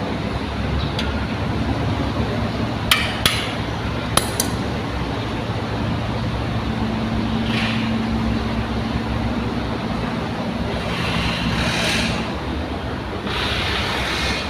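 An engine running steadily with a low hum. A few sharp metallic clinks come about three and four seconds in, and there are short bursts of hiss later on.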